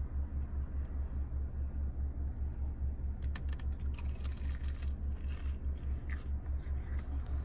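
A steady low hum that pulses evenly, with scattered small clicks, scrapes and crunches of a sauce container being handled and a corn dog being bitten into.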